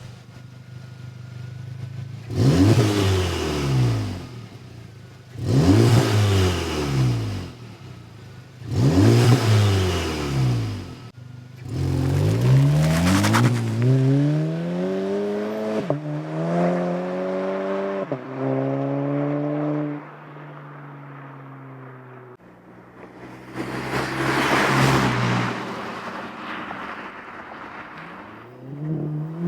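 VW MK7 GTI's turbocharged 2.0-litre four-cylinder through an AWE Tuning Track Edition straight-pipe cat-back exhaust with the stock downpipe: revved three times in short blips. It then pulls hard through the gears, the pitch climbing and dropping at each upshift, and rises once more near the end.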